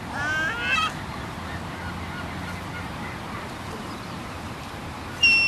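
Seagulls calling: a quick run of wavering, yelping calls in the first second, then one loud, sharp, high call near the end.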